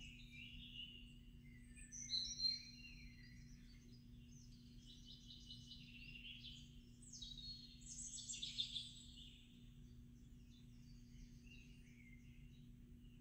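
Birds chirping and singing in a stream of short, high calls and trills, loudest about two seconds in and again around eight seconds, over a faint steady low hum.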